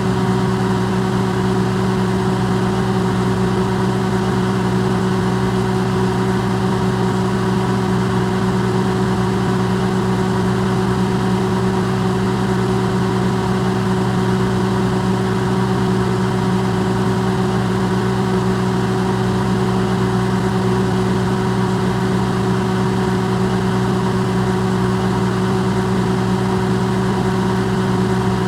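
Electrolux microwave oven running, recorded close up and amplified: a steady, unchanging hum.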